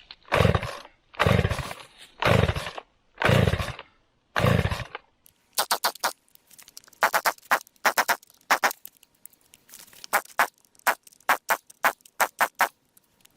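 Two-stroke chainsaw being pull-started: five hard pulls of the starter cord, about one a second, the engine cranking over without catching, a sign of a no-start the owner suspects may be the spark plug. After that comes a long run of short, sharp sounds at irregular spacing.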